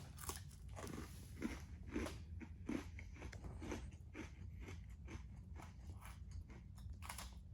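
A person chewing a crunchy Nature Valley oats and dark chocolate granola bar, faint crunches about two a second.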